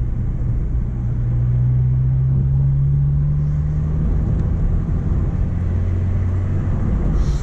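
Renault Clio's D7F engine and road noise, heard from inside the car: a steady low drone whose pitch climbs slightly, then drops to a lower steady note a little past halfway.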